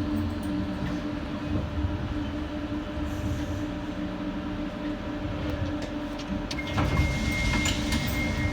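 Docklands Light Railway electric train heard from inside the carriage, running with a steady motor hum and rumble from the wheels on the track. Near the end it gets a little louder and a steady high-pitched whine sets in as it draws into a station.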